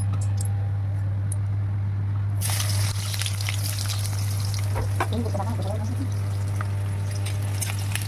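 Food going into hot cooking oil in a pan: a sizzle starts suddenly about two and a half seconds in and keeps hissing and crackling. A steady low hum runs underneath.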